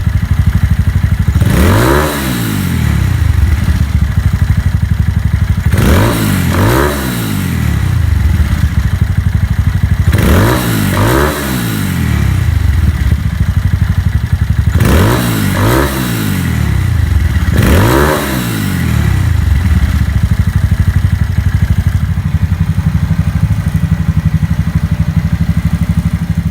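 Honda Grom's single-cylinder four-stroke engine, bored up to 181cc with a Takegawa kit, idling through a Moriwaki exhaust and blipped about eight times, mostly in quick pairs, each rev rising and falling straight back to idle. It settles into a steady idle for the last several seconds.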